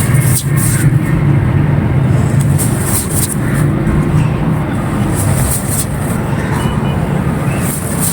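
Dry, dusty clay crumbling in many short, crisp crackles, over a steady low rumble.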